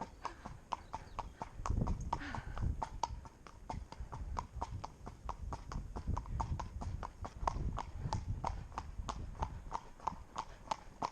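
Connemara pony's shod hooves clip-clopping on a hard road in a steady beat of about four strikes a second, with wind rumbling on the microphone.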